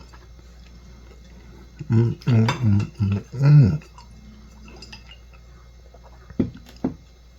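A man's voice making a few short, wordless hummed sounds of approval while tasting food, then two sharp clicks near the end.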